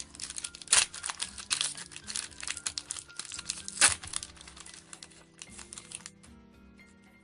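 Duel Masters booster-pack wrapper crinkling and being torn open, a dense run of crackles with a few louder snaps, stopping about six seconds in. Background music plays underneath.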